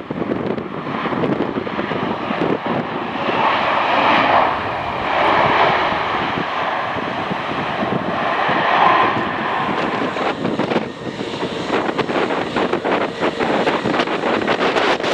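Airliner engines running as an aircraft passes, swelling in loudness a few times. Strong wind buffets the microphone, with gusts crackling more in the second half.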